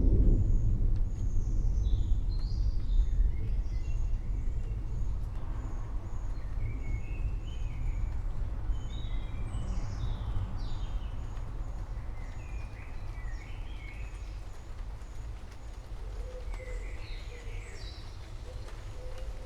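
Low rumble of thunder dying away slowly, with birds calling over it: a high chirp repeated about twice a second and a scatter of varied chirps and short songs. A low cooing call comes in near the end.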